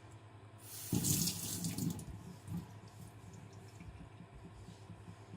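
Water running from a tap for about a second, starting about a second in, then only faint trickling.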